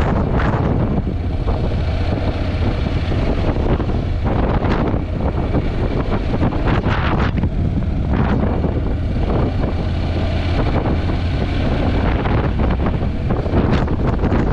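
Wind buffeting a GoPro action camera's microphone on a moving motorcycle: a loud, steady rush with gusts swelling every second or two.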